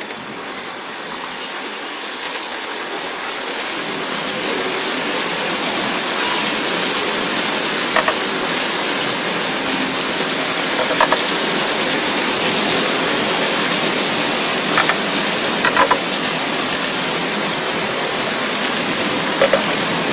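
Steady rain falling, an even hiss that grows louder over the first few seconds and then holds, with a few louder single drops landing close by.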